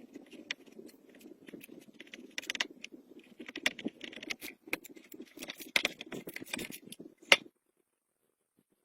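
A run of light clicks and clinks from small hard objects being handled, over a low steady hum. It all cuts off abruptly about seven and a half seconds in.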